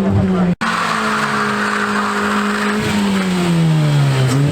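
Car engine held at high, steady revs during a burnout, with the hiss and squeal of a spinning tyre; the revs drop away near the end. The sound cuts out for an instant about half a second in.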